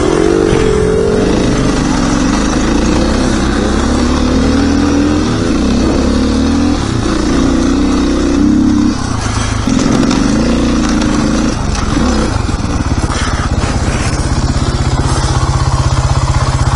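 Dirt bike engine running loud while riding, its revs rising and falling. About twelve seconds in it settles into a steady, lower idle.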